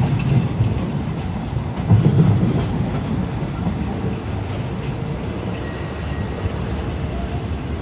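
Passenger train running along the track, heard from an open carriage window: a steady rumble and clatter of wheels on rails, swelling louder about two seconds in.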